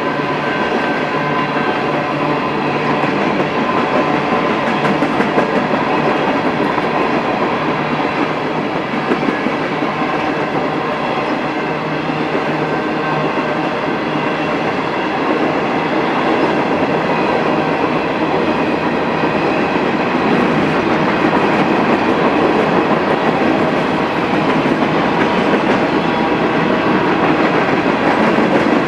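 Coal train's hopper cars rolling past at steady speed: continuous rumble and clickety-clack of wheels over the rail joints, with a few steady whining tones on top, growing a little louder in the second half.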